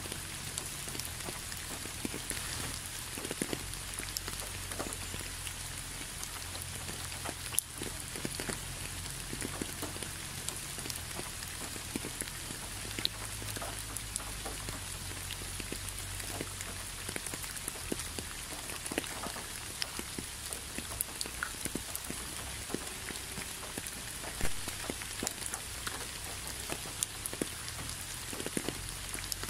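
Gentle rain falling on concrete: a steady hiss with many individual drops ticking at random.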